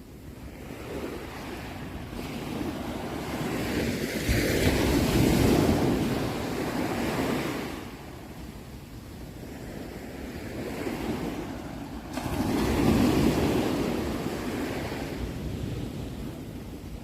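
Sea waves surging and breaking, in two big swells: the first builds to a peak about five seconds in and ebbs away by eight seconds, the second peaks about thirteen seconds in and slowly washes out.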